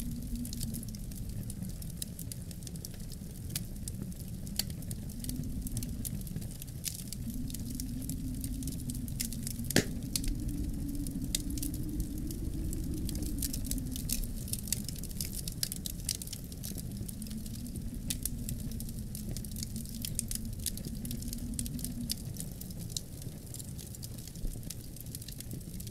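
Wood fire crackling in a fireplace, with frequent small pops and one louder pop about ten seconds in, over a low wind that swells and fades in gusts.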